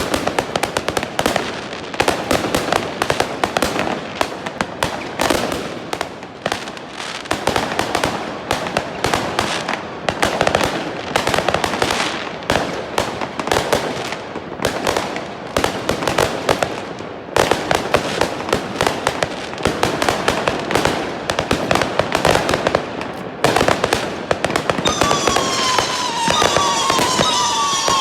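Fireworks display: a dense, continuous stream of bangs and crackling bursts. About 25 seconds in, several whistling tones that fall in pitch join the bangs.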